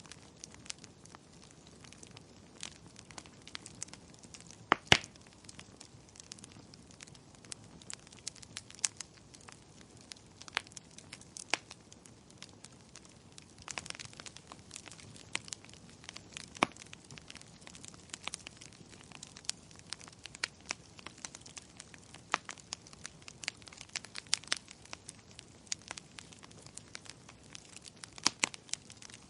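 Wood fire in a fireplace crackling: irregular sharp pops and snaps over a soft, steady hiss, the loudest pop about five seconds in.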